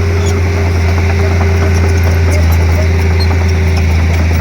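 Komatsu D31P crawler bulldozer's diesel engine running steadily with a deep hum.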